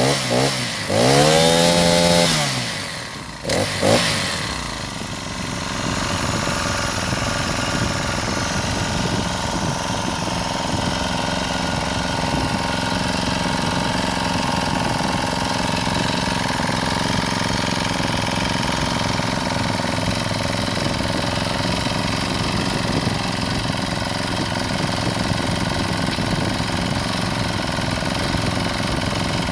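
Small Honda four-stroke engine on a homemade stand-up scooter, revved up and down twice, dropping off with a couple of sharp knocks about three to four seconds in, then running steadily.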